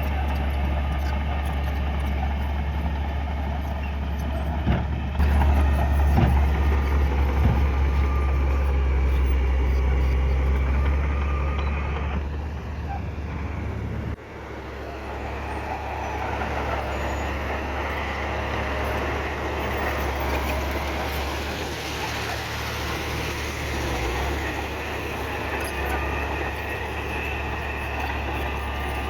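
Heavy diesel earthmoving machinery running steadily under load, with a deep engine drone. It gets louder about five seconds in and drops off abruptly about fourteen seconds in, then carries on at a steady level.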